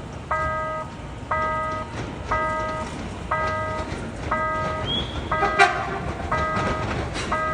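Railway level-crossing warning bell ringing about once a second, each ring a short multi-pitched ding lasting about half a second. A brief sharp sound cuts in about five and a half seconds in and is the loudest moment.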